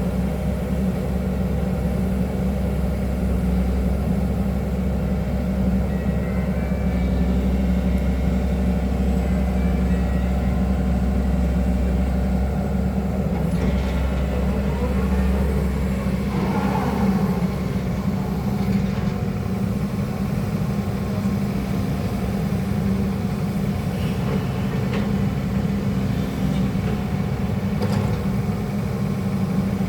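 Hydraulic excavator's diesel engine running steadily during digging work, its low note shifting about halfway through.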